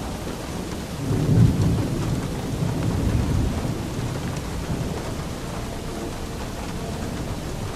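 Steady rain with a low roll of thunder that swells about a second in, peaks, and rumbles on for a few seconds before fading back under the rain.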